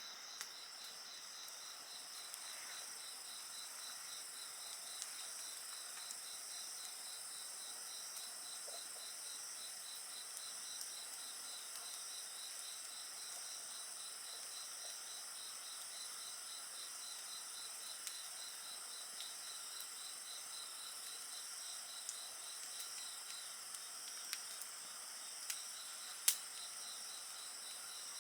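Insects singing steadily in a high, fast pulsing trill, with a wood fire crackling in small scattered pops over it; one sharper pop comes near the end.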